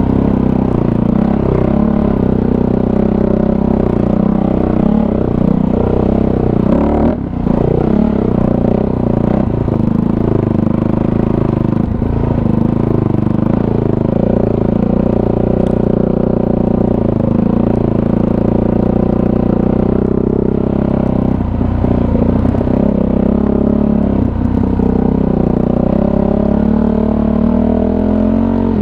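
Kawasaki KFX450R quad's single-cylinder four-stroke engine running at low, fairly steady throttle while riding a trail, its pitch rising and falling a little with the throttle. The engine note dips briefly about seven seconds in.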